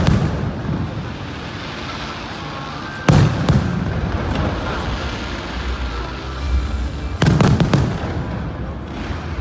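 Aerial fireworks shells bursting: one loud bang about three seconds in and a quick cluster of bangs about seven seconds in, over a steady background din.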